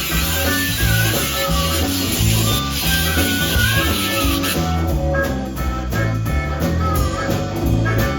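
Blues music played by a band: a guitar with bent notes over a steadily stepping bass line.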